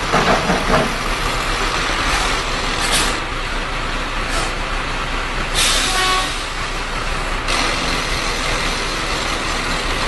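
Heavy dump truck running, with short bursts of hissing air about three and four and a half seconds in and a longer hiss about two seconds long in the middle.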